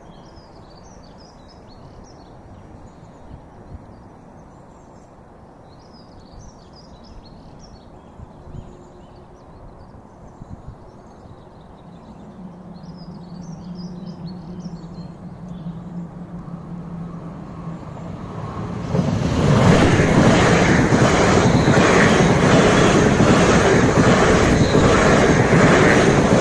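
Birds chirping over low background noise, then a Greater Anglia Class 360 electric multiple unit approaching with a rising low hum and passing over the level crossing, loud wheel-on-rail rushing and rumbling from about two-thirds of the way in.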